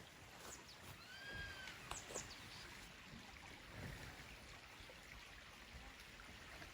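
Faint, steady rush of a mountain stream. About a second in comes a short squeak that rises and falls, and a few light clicks follow around two seconds in.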